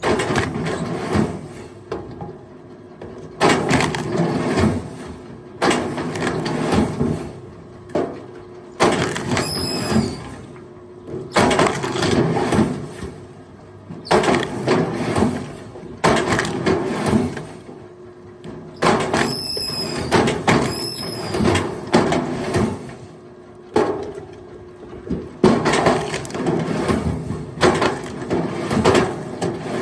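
Firewood logs being tossed by hand onto a pile, clattering and knocking wood on wood every couple of seconds, over a steady low hum.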